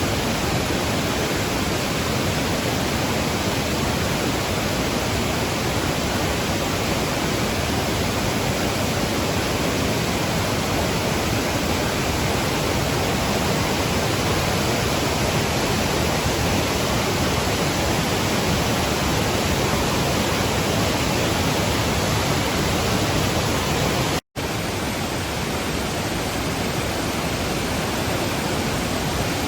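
Mountain waterfall rushing and crashing, a steady, even roar of falling water. It breaks off for an instant late on and resumes unchanged.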